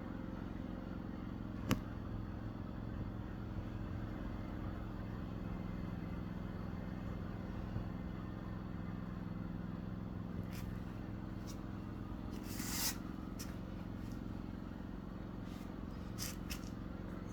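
Steady low motor hum, like an engine running, with a sharp click about two seconds in and a few brief scraping rustles in the second half.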